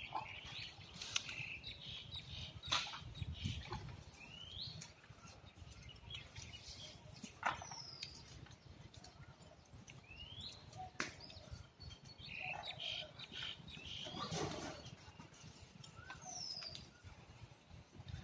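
Scattered short bird chirps, some falling and some rising in pitch, with a few soft knocks and rustles in between.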